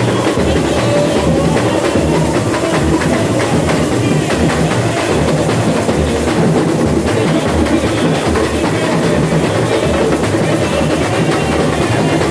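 Samba school bateria playing a samba: massed drums and percussion with a steady, deep bass-drum pulse under a dense rhythm.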